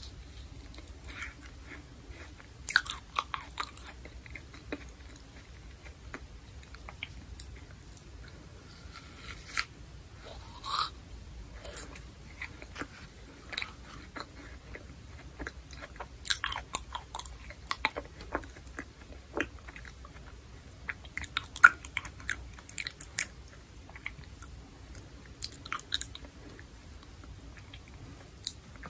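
Close-miked biting and chewing of sugar-coated candied fruit: the hard candy shell cracks and crunches in irregular clusters of sharp crunches, with quieter chewing between them.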